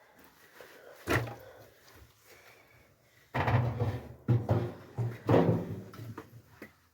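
A single sharp knock about a second in, then a run of heavy thumps and knocks from about three to six seconds in.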